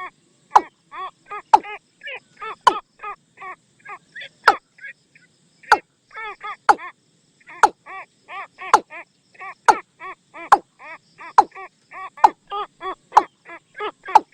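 Watercock call used as a hunting decoy: a steady run of hollow, pitched notes, two or three between sharp, loud clicking notes that come about once a second, with a brief pause about five seconds in.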